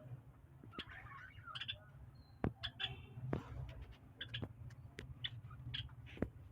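Small cage birds chirping in short, scattered calls, with a few sharp clicks among them over a steady low hum.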